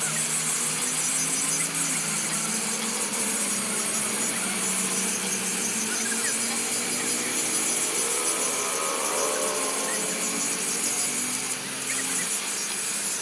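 A power tool running steadily on the truck's leaf-spring repair work.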